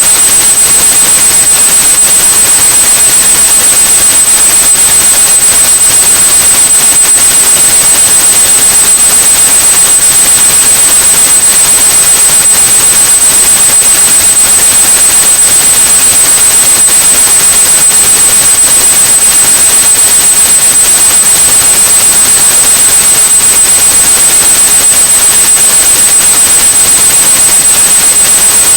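Continuous synthetic white noise, a loud steady hiss, with a steady high-pitched 8100 Hz sine tone laid over it; neither changes.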